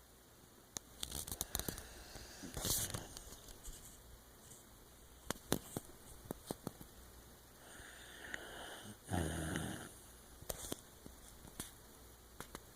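A dog snoring in its sleep, with short snuffly clicks between breaths and the loudest snore about nine seconds in.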